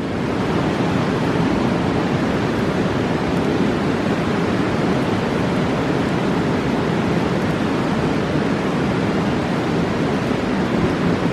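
A fast mountain river rushing in a steady roar of water.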